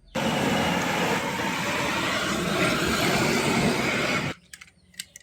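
Dump-truck sound effect: a loud, steady rushing and rumbling noise with no clear pitch, lasting about four seconds and cutting off abruptly.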